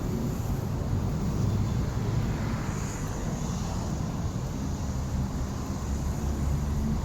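Wind buffeting the microphone: a steady low rumble that rises and falls a little.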